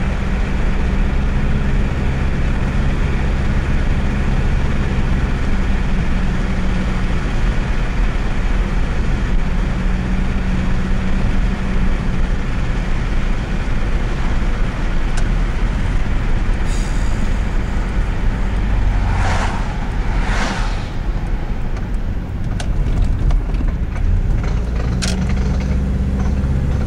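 A 1998 Subaru Legacy's flat-four engine running with steady road and drivetrain noise while the car turns, carrying an unidentified noise that appears only when turning. Two short rushes of noise come close together about two-thirds of the way through.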